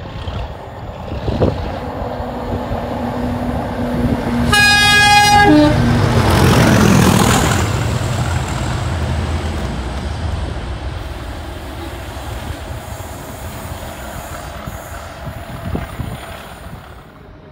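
A passing train sounds its horn once for about a second, the note dropping in pitch as it ends. The train then rushes past, its rumble loudest just after the horn and fading away slowly.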